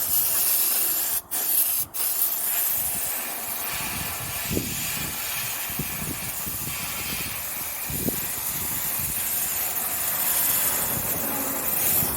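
Handheld steamer machine spraying a steady hiss of steam onto a plastic headlight lens, cutting out briefly twice near the start.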